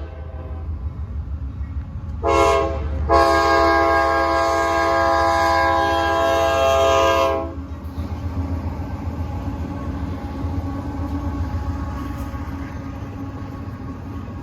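Diesel freight locomotive horn sounding a short blast and then a long one, the close of the long-long-short-long grade-crossing signal, followed by the steady low rumble of the train passing.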